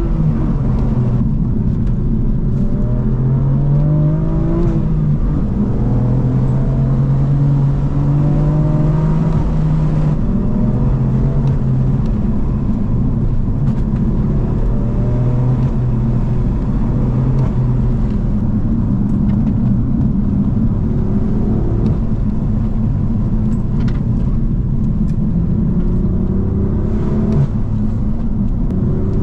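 BMW M4 F82's twin-turbo inline-six engine and exhaust, heard from the cabin while driven hard through the gears: the engine note climbs under acceleration, drops at shifts and holds steady between pulls.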